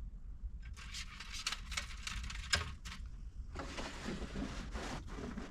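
Wire fish and dash cam cable being hand-pulled along the headliner edge and rubber pinch seal, making rustling and scraping in uneven strokes, with a sharp click about two and a half seconds in. A steady low hum runs underneath.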